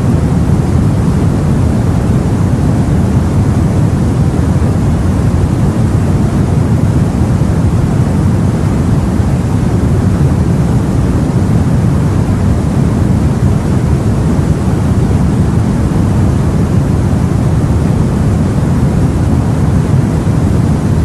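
Steady low rumble of the open sea and wind heard from a boat, with no single wave or gust standing out.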